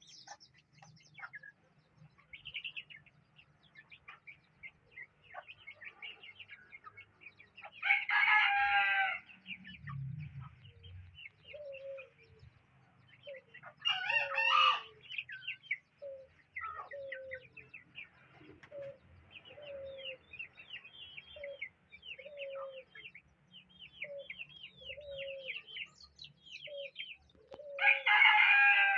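Rooster crowing three times, with small birds chirping throughout. From about halfway, short low bird calls repeat roughly once a second.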